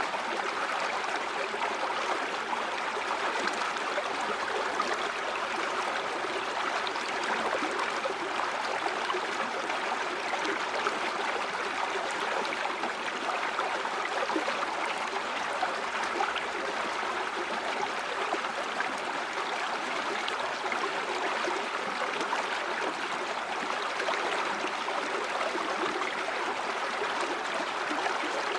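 Steady flowing river water, an even rush of a stream running over stones.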